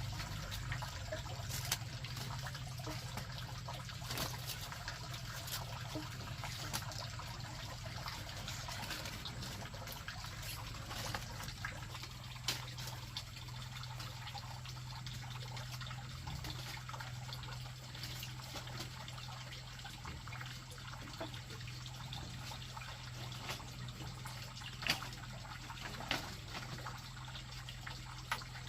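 Water trickling and dripping steadily, with scattered sharp drips or taps, over a steady low hum.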